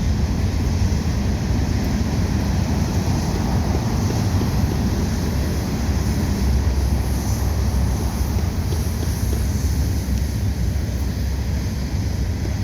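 Steady low rumble of a moving vehicle with wind noise on the microphone, even throughout.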